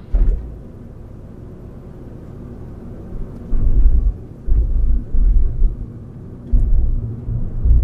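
Wind buffeting the microphone outdoors: a faint steady background, then irregular low rumbling gusts from about three and a half seconds in.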